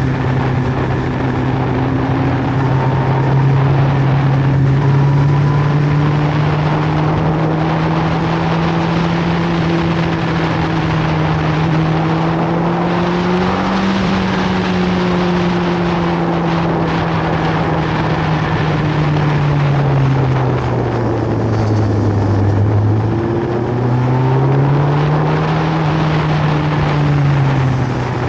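Sport motorcycle engine running steadily under way, its pitch rising and falling gently with the throttle, then dropping and picking up again about three-quarters of the way through, over a constant rush of noise.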